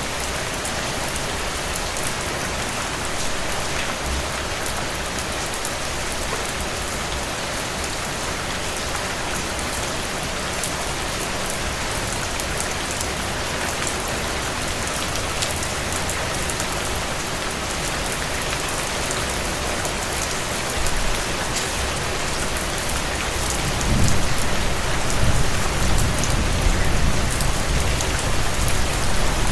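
Steady rain falling on a surface, a dense even hiss with scattered individual drops. About three-quarters of the way in, a low rumble swells up under the rain and carries on to the end.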